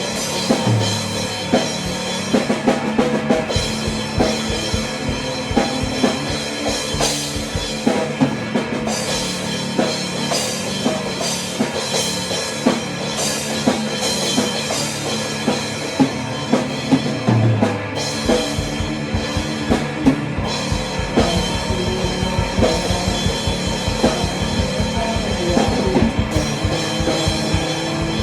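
Rock music with a full drum kit, bass drum and snare, playing under held bass and chord notes. About two-thirds of the way through, the low end gets heavier with denser kick-drum hits.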